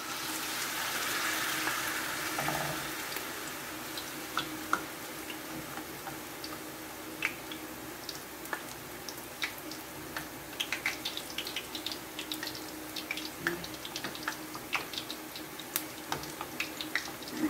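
Battered sweet potato sticks lowered into hot cooking oil in a frying pan. A loud rush of sizzling at the start eases over the first three seconds into steady frying, with many small crackles and pops.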